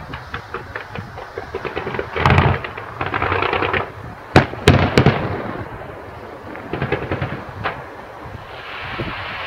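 Fireworks display: runs of rapid crackling pops from bursting shells, with three sharp loud bangs in quick succession about halfway through, then more crackling.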